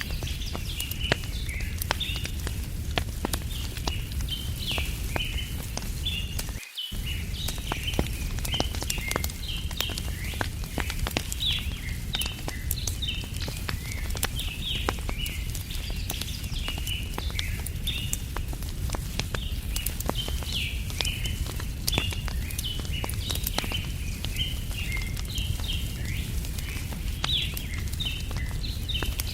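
Campfire crackling with frequent sharp pops over a steady low rumble, while small birds chirp continuously in the background. The sound cuts out completely for a split second about seven seconds in.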